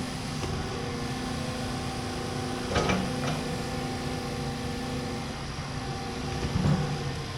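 A large hydraulic excavator's diesel engine running steadily, with two short knocks or clanks, one about three seconds in and one near the end.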